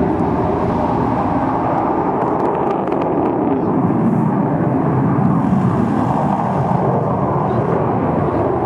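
English Electric Canberra's twin Rolls-Royce Avon turbojets running during a display pass: a steady, loud jet noise.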